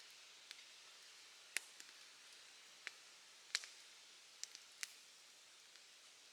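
Campfire crackling: sparse, irregular sharp pops and snaps, about eight in all, over a faint steady hiss.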